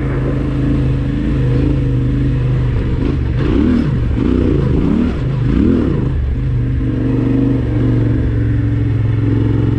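Yamaha Ténéré 700's parallel-twin engine running steadily at low revs, with the revs rising and falling several times between about three and six seconds in as the throttle is worked.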